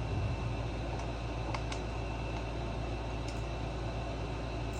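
Steady low background hum, like a shop fan or room tone, with a few faint light clicks.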